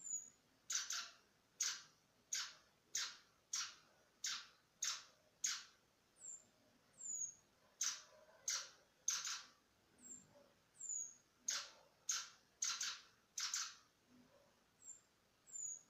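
Cuban bullfinch calling in its cage: a long, regular series of short, raspy notes, roughly three every two seconds, with a few faint, thin, high falling notes in between.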